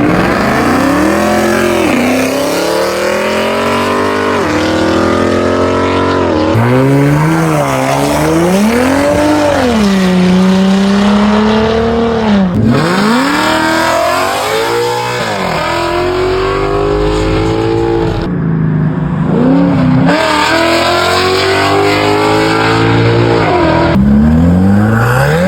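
Car engines revving hard, the pitch climbing and falling again and again over a hiss of tyre noise. The sound comes in short spliced clips, with sudden cuts between them.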